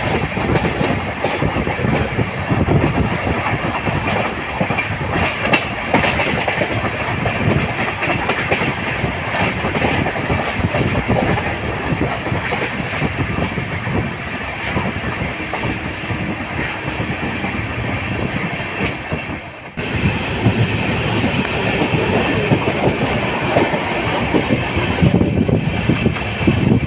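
Indian Railways express train running at speed, its wheels clattering steadily over the rail joints, with a brief drop in the noise about twenty seconds in.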